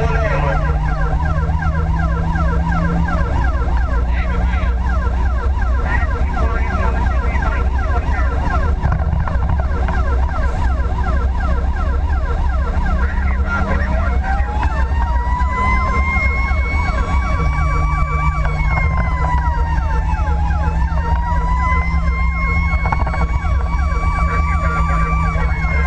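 Fire engine siren on a fast, repeating yelp over a steady engine drone. About 14 seconds in, a slower wailing siren tone winds up, dips briefly and climbs again, running alongside the yelp.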